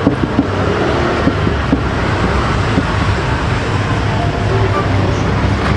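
A loud, steady mechanical rumble with hiss, even throughout.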